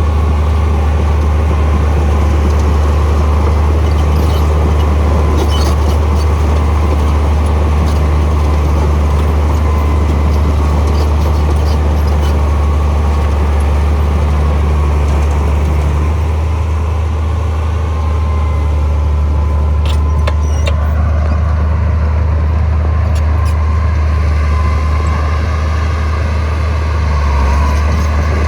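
Heavy diesel engine of earthmoving machinery running steadily with a deep, low hum that eases slightly past the middle. A few short, sharp clanks come about twenty seconds in.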